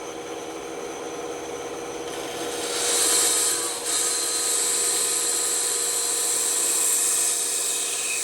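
Bandsaw running with a steady hum, its blade cutting through wood. The cutting grows loud about three seconds in, eases for a moment just before four seconds, then carries on steadily.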